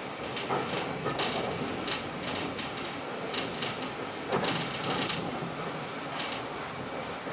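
Steam-hauled train running along the track, heard from the rear of the train: a steady rolling rumble with irregular knocks and clicks from the wheels on the rails, and a denser clatter about two-thirds of the way through.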